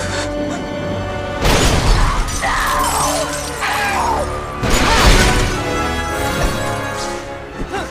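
Film soundtrack of an explosion scene: dramatic music under two loud blasts with shattering glass, the first about a second and a half in and the second near five seconds.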